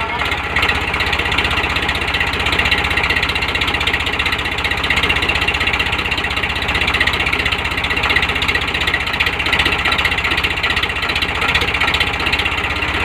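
Tractor diesel engine running steadily, with a fast, even beat.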